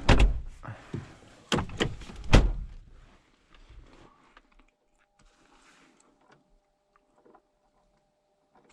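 Car doors being shut: three heavy thunks within the first two and a half seconds, then near quiet with faint ticks and a faint steady tone.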